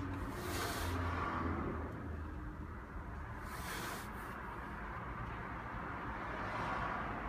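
LG Multi V mini outdoor air-conditioning unit running with a steady low hum. Two short hissing rushes come over it, about half a second and about three and a half seconds in.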